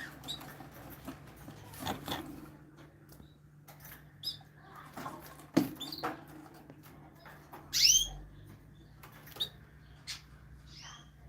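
Small birds of several kinds giving short, scattered chirps, the loudest about eight seconds in, with a few sharp clicks or knocks between them over a faint low hum.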